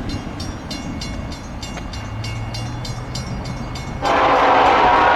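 A bell rings rapidly, about three to four strikes a second, over the low rumble of a diesel locomotive. About four seconds in, the locomotive's air horn sounds a loud, sustained chord.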